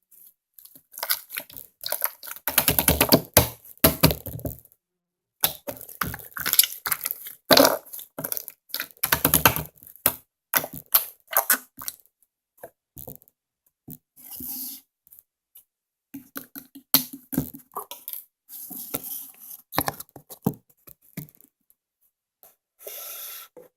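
Hands squishing and kneading slime, giving irregular spurts of wet clicks and pops with short pauses between.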